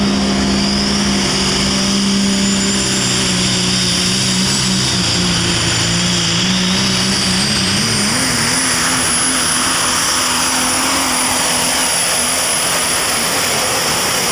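Super stock diesel pulling truck running at full throttle under load, with its turbocharger whistle rising steadily in pitch over the first half and then holding high above the loud, steady engine.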